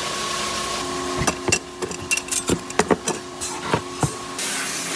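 Around ten sharp, uneven taps of metal on metal over a steady hum of workshop machinery: a freshly sharpened kitchen knife blade being tapped to straighten the slight bend that sharpening leaves.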